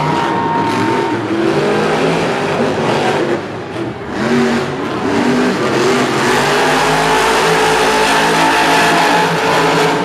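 Monster truck engines revving hard during a race, the pitch rising and falling as the throttle changes, with a brief drop about three and a half seconds in before they rev back up.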